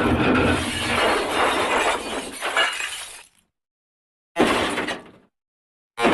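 The MGM cartoon 'elephant smash' crash sound effect: a long, loud crash of shattering glass that dies away about three seconds in. After a short gap a second, briefer crash follows.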